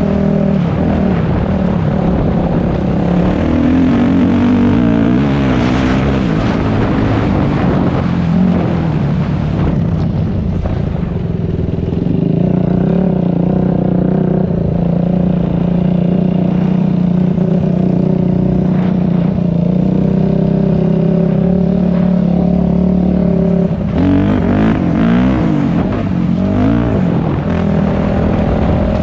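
Dirt bike engine on a trail ride, revving up and down with the throttle, then held at a steady speed for a long stretch in the middle before rising and falling again near the end.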